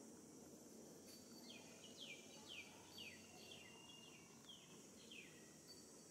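Faint bird call: a run of about eight short whistled notes, each falling in pitch, over a steady high hiss of background ambience.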